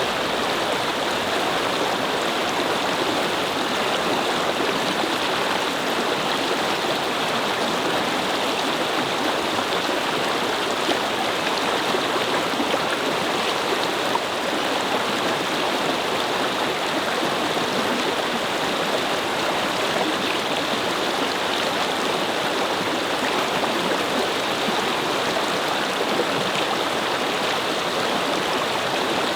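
A shallow brook babbling steadily, an even wash of flowing water.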